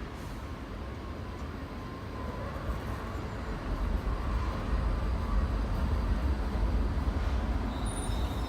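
Electric multiple-unit train running into a terminus platform: a low rumble that grows louder from about two seconds in, with a faint high wheel squeal starting near the end.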